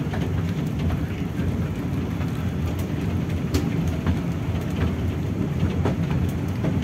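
Mini toy train running along its narrow track: a steady low rumble with scattered sharp clicks of the wheels on the rails.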